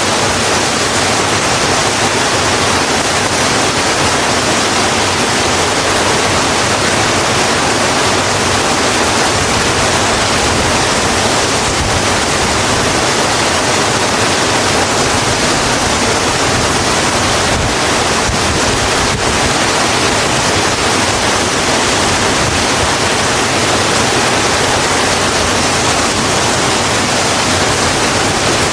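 Steady heavy rain falling on a road, an even hiss of water with no breaks.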